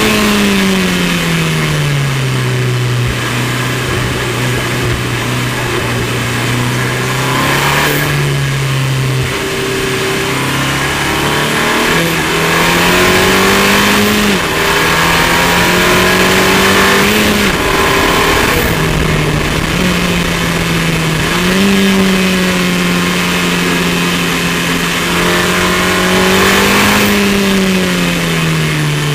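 Onboard sound of a KTM X-Bow R's Audi 2.0-litre turbocharged four-cylinder engine at speed: the note falls over the first few seconds as the car slows, then steps up and down with each gear change and throttle change, under a steady rush of wind through the open cockpit.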